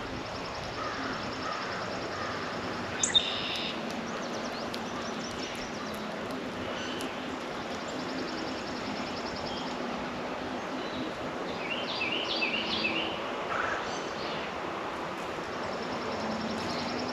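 Backyard songbirds calling and chirping over a steady outdoor background hiss and low hum. There is a sharp, loud chip about three seconds in, and a quick run of high notes about three quarters of the way through.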